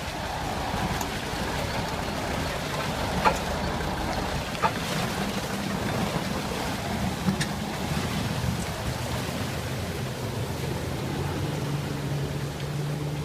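A heavy vehicle's engine running steadily under a noisy outdoor wash, with a few short sharp knocks.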